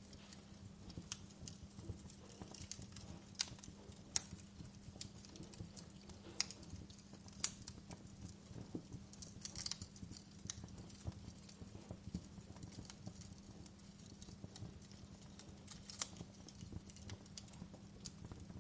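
Fire crackling: irregular small snaps and pops, a few of them sharper and louder, over a low steady hum.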